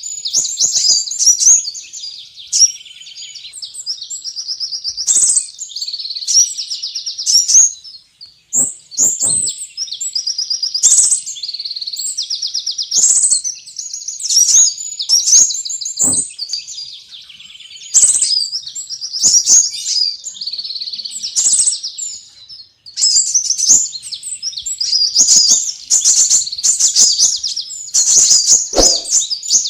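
Sunbirds (kolibri) calling: rapid, high-pitched chirps and trills in dense bursts with short gaps, mixed with occasional clicks. This is a lure recording (suara pikat), made to draw small birds in.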